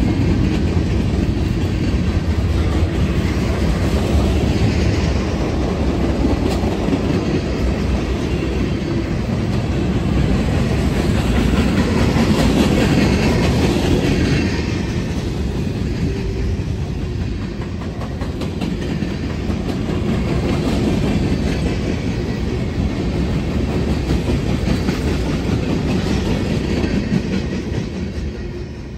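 Norfolk Southern freight train cars rolling past, a steady rumble of wheels on rail with clickety-clack over the rail joints, dying away near the end.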